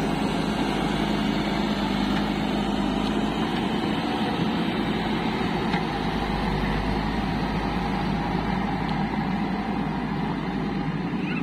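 An engine running steadily, starting abruptly and holding an even level.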